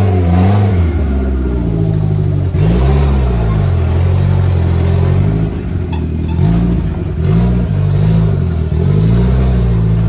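Toyota off-road vehicle's engine revved up to its rev limiter in a series of short blips, about six in all, each rising quickly and dropping back to a steady run. A brief sharp click comes about six seconds in.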